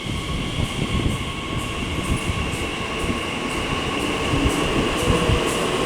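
TfL Rail Class 345 electric multiple unit moving off from the platform: a steady electric whine over train running noise, with light clicks from the wheels on the rails.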